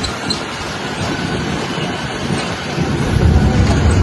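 Tractor engine running with a steady low rumble and noisy wind-and-road hiss, the rumble growing louder about three seconds in.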